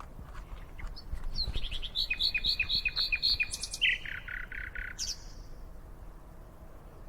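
A songbird singing one phrase: a fast run of repeated high, clear notes that drops into a run of lower notes and ends on a single high note.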